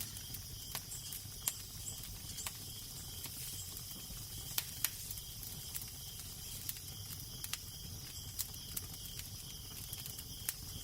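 Wood fire crackling, with irregular sharp pops, the loudest two close together about halfway through, over a steady low wind rumble and hiss.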